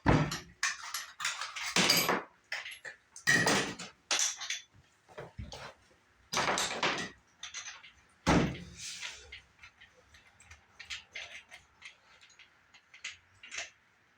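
Metal clanks, clinks and rattles of tools and parts being handled while an angle grinder's disc is changed over: a run of irregular knocks, louder in the first half and smaller towards the end, with no grinder running.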